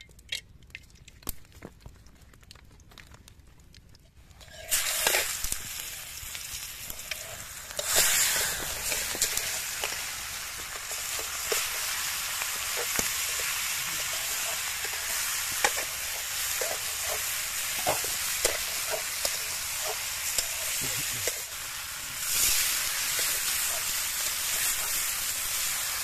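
Marinated meat frying in hot oil in an aluminium karahi: a loud sizzle starts about five seconds in, surges again near eight seconds and settles into steady frying. A metal spatula clicks and scrapes against the pan as the meat is stirred.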